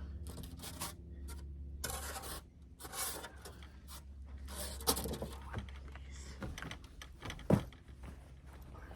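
Handling noises: several short rustles and light clicks, then one sharper knock about seven and a half seconds in, over a low steady hum.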